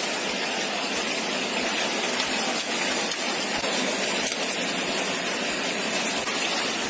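Heavy rain in a storm downpour, a steady dense hiss with a few faint hits in it.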